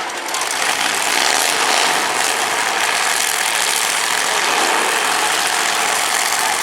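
Demolition derby cars' V8 engines running together in a loud, steady din.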